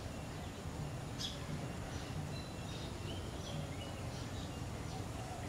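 Birds chirping: a string of short, high whistled calls, one sharper call about a second in, over a steady low background hum.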